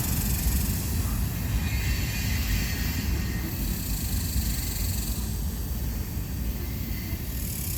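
Manifest freight train rolling past: a steady low rumble of wheels on rail with a high hiss, slowly fading.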